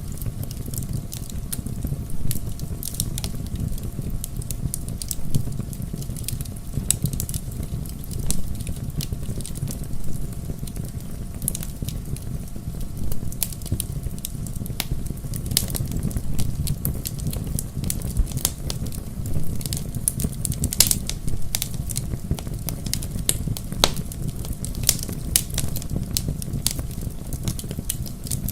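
Bonfire burning with a steady low rumble and frequent sharp crackles and pops from the burning logs, scattered irregularly throughout.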